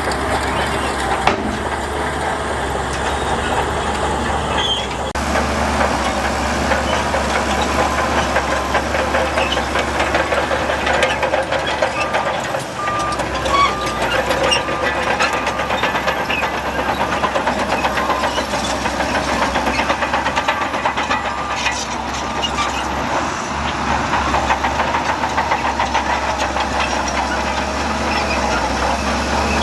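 Heavy diesel earthmoving machinery running steadily, with a short run of high beeps about halfway through.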